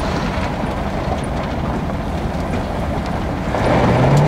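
1966 Chevy Biscayne's 396 big-block V8 running, heard from inside the cabin as the car rolls slowly. The engine note steps up and gets louder about three and a half seconds in.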